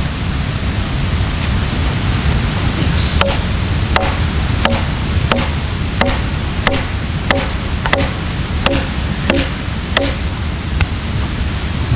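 Ushkuy axe chopping into a log: about a dozen evenly spaced strikes, roughly one and a half a second, starting a few seconds in, over a steady low rushing noise.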